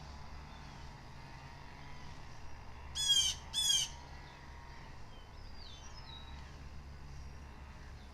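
Blue jay giving two harsh jay calls in quick succession, about three seconds in, with fainter small bird chirps a little later over a steady low hum.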